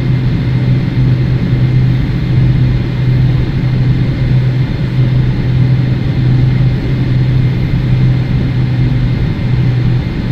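Boeing 777-300ER's GE90-115B turbofan engines at takeoff power, heard inside the cabin as a loud, steady drone with a strong low hum.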